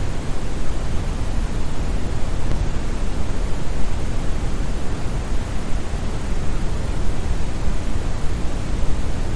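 Synthetic brown noise: a steady, deep hiss with most of its energy in the bass, thinning toward the treble, like a distant waterfall.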